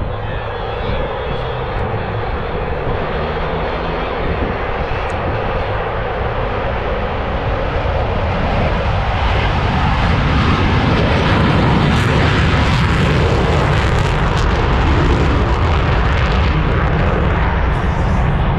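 Jet engines of Blue Angels F/A-18 Super Hornets, a dense noise that swells over about ten seconds and then holds loud.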